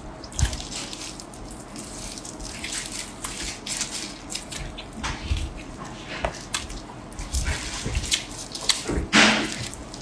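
Close-miked chewing of a mouthful of fatty pork belly: wet smacking and many small irregular clicks, with a louder wet burst about nine seconds in.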